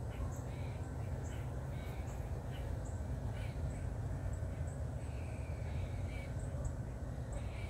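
Birds calling outdoors in short, irregular chirps, over a steady low rumble.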